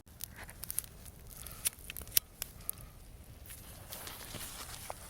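Scattered small clicks and crackles over faint background noise, with two sharper snaps about two seconds in.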